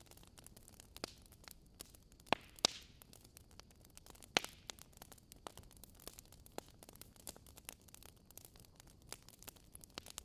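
Wood fire crackling in a fireplace: irregular sharp pops over a soft hiss, with a few louder pops between about two and five seconds in.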